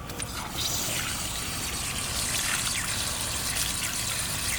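Water trickling and splashing onto the ground, starting about half a second in and running steadily, with small drips and splashes throughout.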